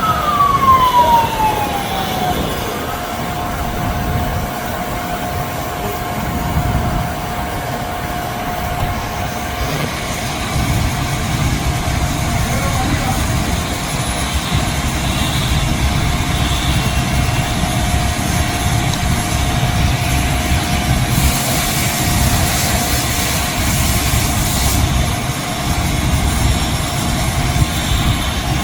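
Car wash machinery running with a steady whine over a low rumble. A motor's pitch falls over the first couple of seconds and then holds, and a burst of hiss comes about three quarters of the way through.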